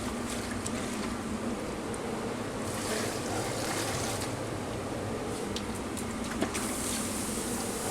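Food sizzling in a sauté pan, a steady hiss that swells louder a few times, over the constant rush of a commercial kitchen, with a few light clicks.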